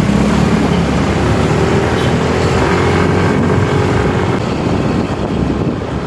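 Motorcycle running steadily on the road while being ridden, with wind and road noise on the rider's microphone.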